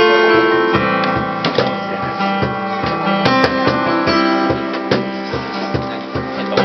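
Live acoustic band playing: guitar over a steady cajón beat, the low drum strokes coming in an even rhythm under sustained chords.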